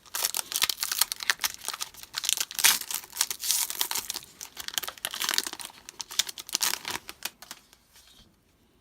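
Foil wrapper of a trading-card pack being torn open and crinkled, a dense run of crackles that dies away near the end.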